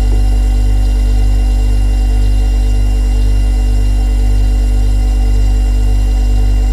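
Refrigerator compressor running: a loud, steady low hum with a slow pulsing in it and thin steady whining tones above.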